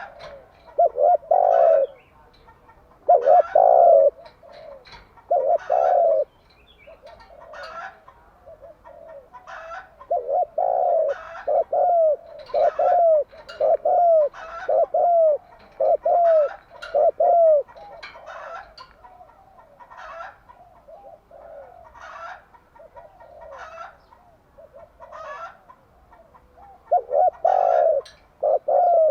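Spotted doves cooing in repeated phrases of low, rounded coos. There are a few phrases near the start, then an evenly paced run of about seven coos roughly one a second, then more near the end. Smaller birds chirp faintly in between.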